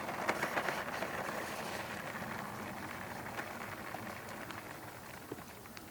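Rushing whoosh of a 90mm electric ducted fan on a Freewing J-10 RC jet in flight, fading steadily as the jet moves away.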